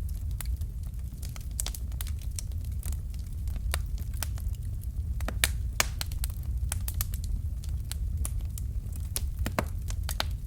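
Fire crackling in a fireplace: irregular sharp pops and snaps, several a second, over a steady low rumble of the flames.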